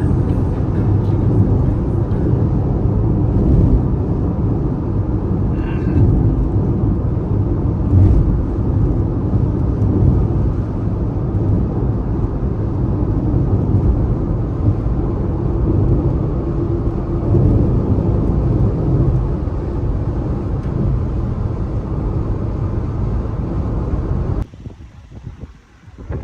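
A car driving on the road: steady low road and engine rumble. It cuts off abruptly near the end.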